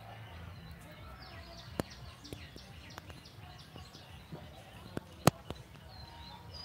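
Small birds chirping and calling in the trees, many short high chirps overlapping, with a few sharp clicks, the loudest about five seconds in.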